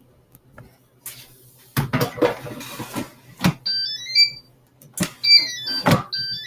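Nuwave Brio air fryer being loaded: the basket knocks and clatters into place several times, and the fryer's control panel plays short rising-and-falling electronic beep melodies, twice in the second half.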